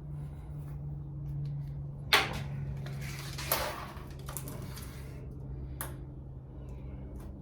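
A sharp knock about two seconds in, a second one about a second and a half later and a lighter click near the end, over a steady low hum.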